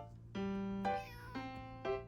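A kitten mews briefly about a second in, over background music of held notes played one after another.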